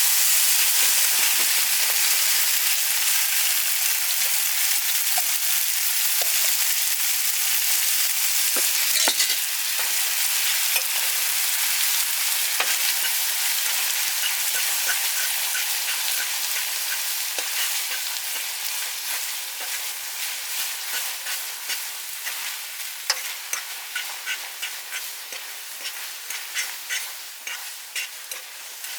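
Food frying in a pan with a steady hissing sizzle that slowly dies down, broken by sharp pops and spits that become more frequent in the second half.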